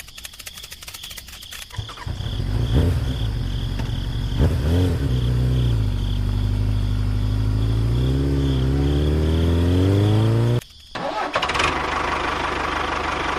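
An engine starts about two seconds in and runs, its pitch dipping and rising as it revs, then cuts off suddenly near the end. A steadier, fainter noise follows.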